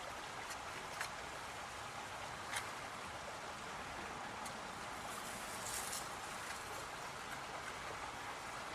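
A short hiss from an aerosol spray can being sprayed onto the axle parts, about six seconds in, over a steady low background hiss, with a couple of faint clicks earlier.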